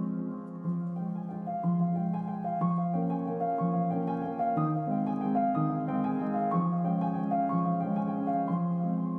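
Soft, slow background piano music: a gentle melody over a low repeating bass, each note held about a second.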